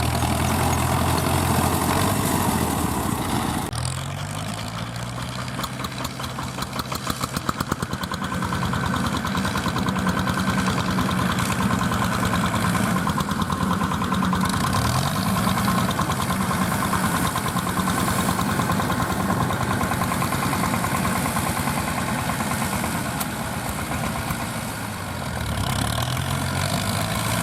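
Fiat 640 tractor's four-cylinder diesel engine running steadily while it drives a straw baler. The engine note dips and recovers briefly about halfway through, and again near the end.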